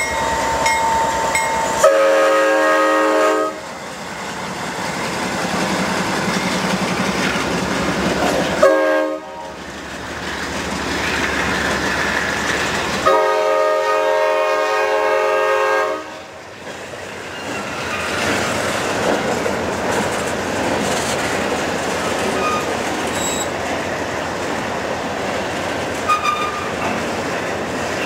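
Freight train rolling past, its steel wheels clacking over the rail joints under tank and hopper cars. The lead locomotive's multi-chime air horn sounds three times: a long blast about two seconds in, a short one near nine seconds, and a longer blast from about thirteen to sixteen seconds, the close of a grade-crossing signal.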